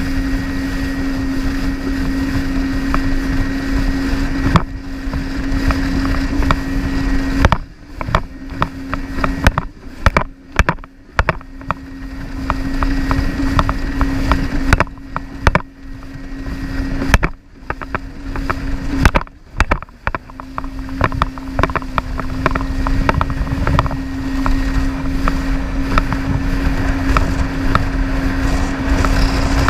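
Jet ski engine running steadily at speed over a rush of wind and water. Through the middle the sound repeatedly cuts out and surges back.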